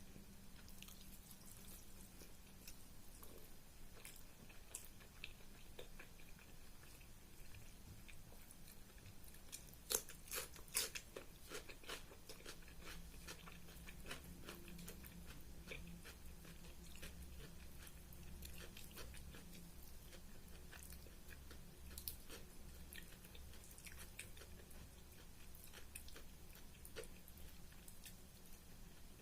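Close-miked chewing of a meal of rice, dal and curries: a steady run of small wet mouth clicks and smacks, with a few louder clicks about ten seconds in.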